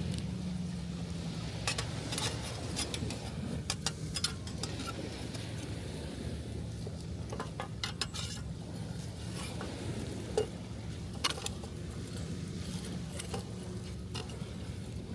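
Wood campfire crackling, with sharp pops coming irregularly and in small clusters, over a steady low rush of surf.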